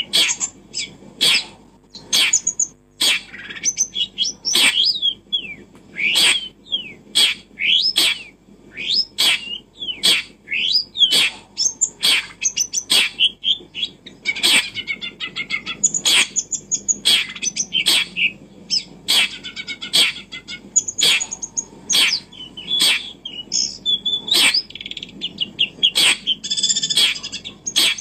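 Small birds chirping and twittering in quick short calls, mixed with sharp clicks or taps, one or two a second.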